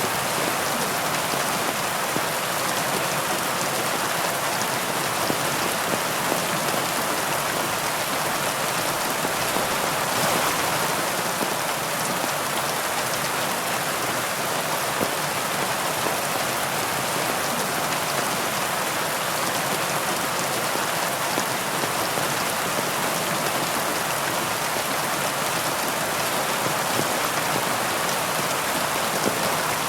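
Heavy, steady rain falling on leaves, a dense even hiss with the patter of individual drops, swelling slightly about ten seconds in.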